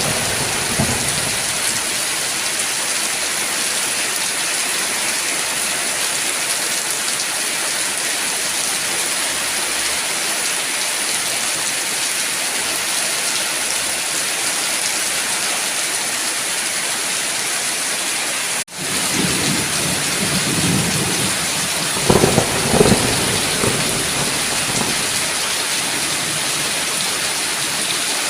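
Steady heavy rain with thunder. Low rolls of thunder rumble for a few seconds about two-thirds of the way in, just after a brief sudden dropout in the rain.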